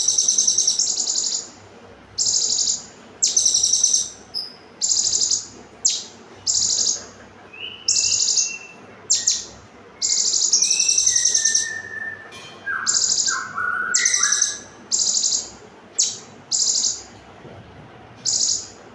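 Olive-backed sunbird (konin) singing in rapid, close-packed bursts: short, very high, buzzy trills about once a second, with a few lower whistled notes in the middle.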